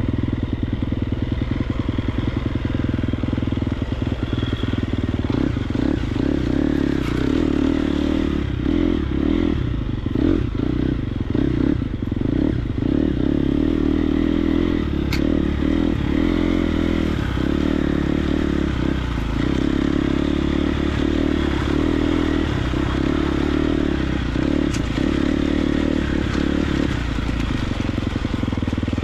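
Triumph TF250X's 249cc single-cylinder four-stroke motocross engine running under way, the throttle opening and closing repeatedly, most often around the middle.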